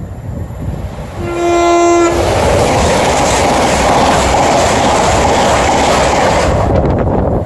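A train on the East Coast Main Line sounds one short, steady horn note and then rushes past at speed with loud wheel and air noise. The rush fades near the end.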